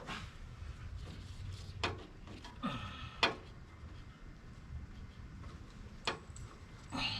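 A few sharp metallic clicks and clinks of a socket wrench and socket being handled and fitted onto a nut, the loudest about three seconds in.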